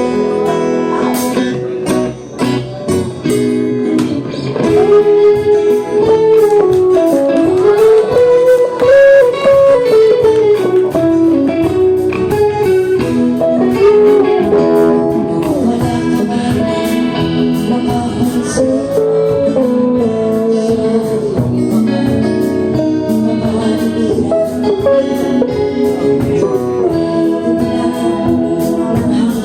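Live acoustic band music led by strummed and plucked guitars, with a melody line rising and falling above the chords.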